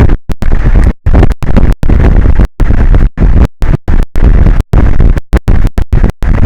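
Loud, distorted rushing noise from an outdoor camera's microphone, heaviest at the low end, cutting out abruptly into silence several times a second.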